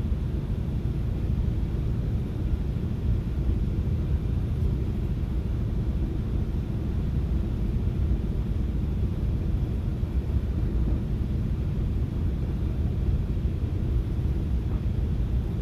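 Steady low rumble of a FrontRunner commuter train running along the track, heard from inside the passenger car.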